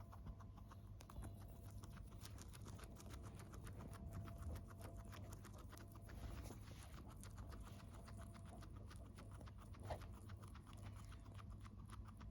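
Guinea pig chewing a snack: a fast, steady run of faint little crunching clicks.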